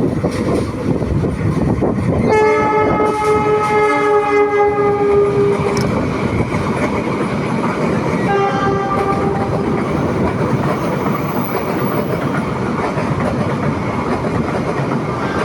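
Train running past with wheels clattering over the rails. Its horn sounds a long blast about two seconds in and a shorter one about eight seconds in.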